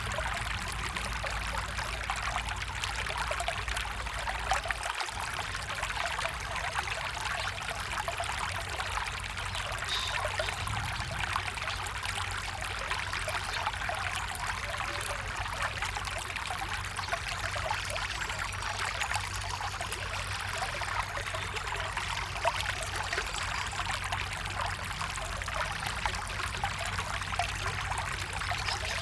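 A small stream of water flowing steadily.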